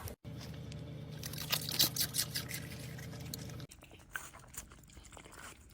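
Dog chewing a large bite of cheese: irregular clicks and smacks of its jaws, over a steady low hum that stops a little over halfway through.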